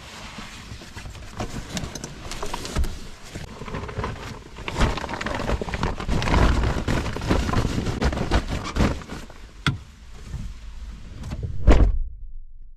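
Irregular knocks, clatter and rustling, busiest in the middle, with one heavy thud near the end.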